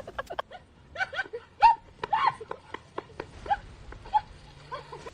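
A dog giving a series of short yelps and whines, irregularly spaced, many of them falling in pitch.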